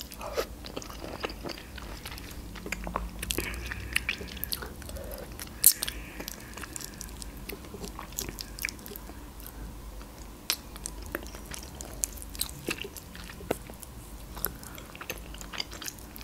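Close-miked chewing and eating of grilled chicken, with fingers pulling the meat apart: irregular sharp mouth clicks and crunches, the loudest about six seconds in.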